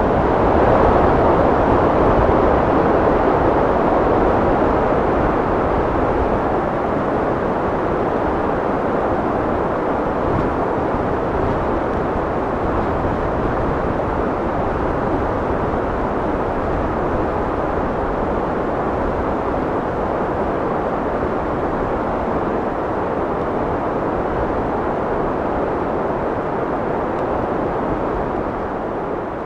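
Steady wind blowing, a rushing noise that swells about a second in, eases slowly, and begins to fade near the end.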